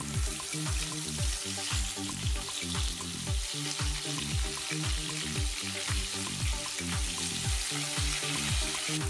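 Rohu fish steaks sizzling steadily in hot mustard oil in a kadai as the pieces are laid in one after another. A soft, steady beat of background music runs underneath.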